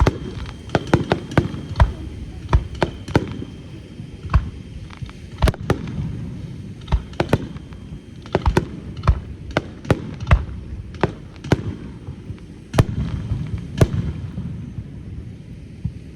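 Aerial fireworks bursting in quick, irregular succession over a continuous rumble: a star mine salvo of many shells going off one after another, some bangs sharp and loud, with echoes.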